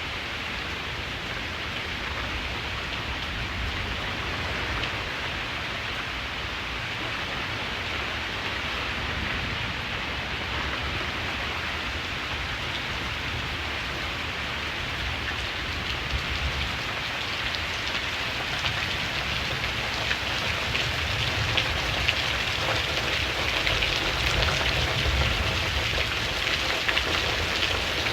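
Steady rain falling on a surface, with a low rumble underneath. From about halfway through it grows louder and heavier, with more distinct individual drops.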